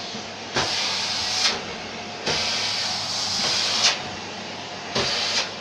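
Three sudden bursts of hissing, rushing noise, each starting and stopping sharply, over a steady background hiss. The first comes about half a second in, the longest lasts about a second and a half, and the last is short, near the end.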